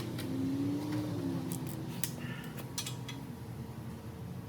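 A few light clicks of a hand wrench being fitted on a bolt, over a steady low hum.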